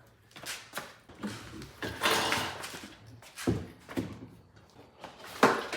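Irregular clunks and knocks with short scraping sounds, from metal hardware being worked while an outboard motor is fitted to a boat's transom. The loudest knocks come about two, three and a half and five and a half seconds in.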